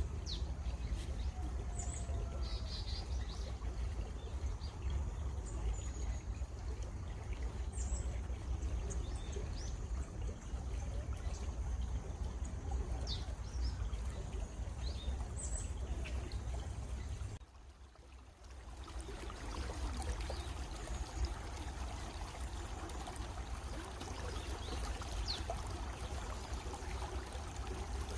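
Stream water running steadily, with scattered short bird chirps, mostly in the first half. About two thirds of the way in the sound drops out for about a second, then the running water comes back fuller.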